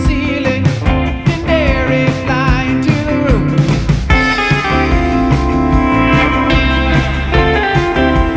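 Rock song with guitar over bass and drums; a lead line wavers and slides in pitch about a second to three seconds in.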